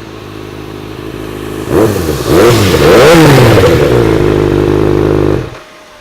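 2014 Kawasaki ZX-6R's inline-four engine through an IXIL aftermarket exhaust, idling, then blipped in several quick revs about two seconds in. It then holds a loud steady note until the sound cuts off abruptly near the end.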